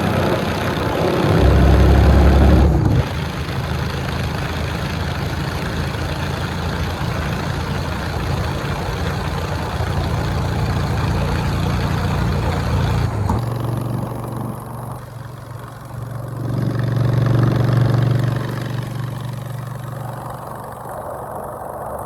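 Motorcycle engine running while riding, with a steady hiss over it. The engine swells loudly about two seconds in and again about three-quarters through, dipping in between, and the hiss drops away about two-thirds through.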